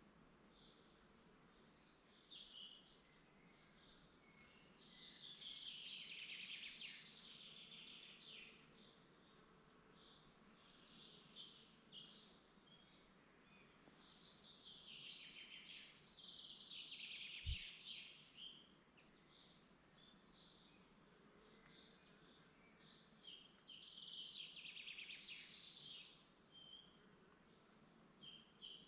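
Woodland birds singing: a rapid, twittering song phrase comes back about every nine seconds, with scattered short chirps from other birds between, over faint background hiss.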